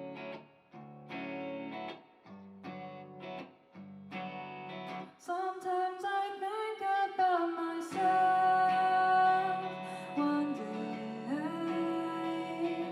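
Live band music: guitar chords played in short, rhythmic stabs, then about five seconds in a sustained melody with singing over fuller guitar.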